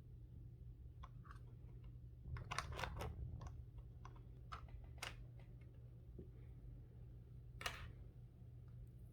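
Faint clicks and crinkles from toy car packaging being handled. There is a quick flurry of them about two and a half seconds in, two single clicks around five seconds, and a longer scraping crinkle near the end.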